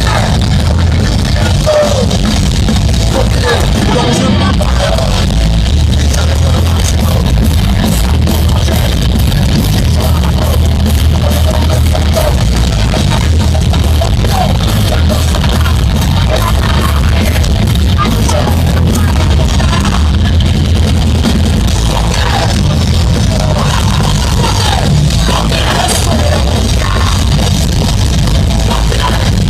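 A live heavy rock band playing loud, with a drum kit and, here and there, shouted vocals.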